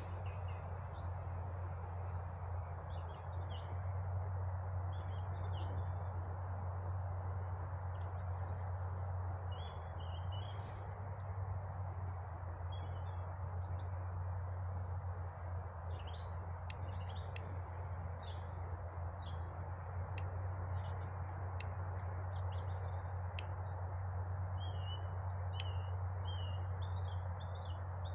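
Small songbirds chirping and singing in short, repeated high calls, over a steady low hum and a broad background hiss. A few sharp clicks come in the second half.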